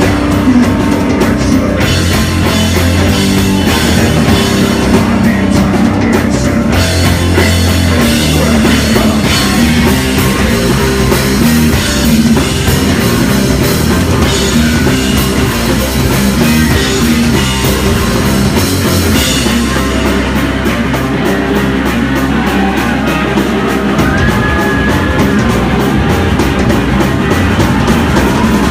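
Live heavy rock band playing loud: distorted guitars, bass and a drum kit, with steady fast drum hits in the second half.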